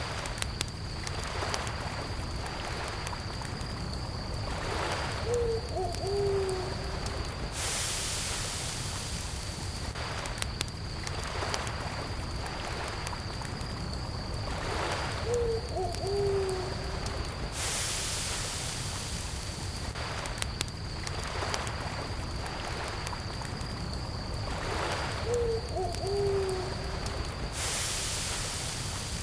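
Campfire crackling with small pops, over a steady high cricket trill and a low wash of gentle lake waves that swells every ten seconds or so. An owl hoots a short group of notes three times, about ten seconds apart.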